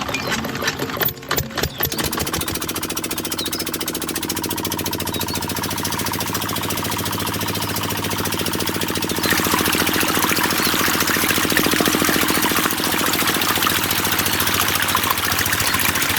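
Small engine of a miniature DIY diesel water pump catching with a few uneven knocks, then settling into a fast, steady running beat. It gets louder, with more hiss, about nine seconds in.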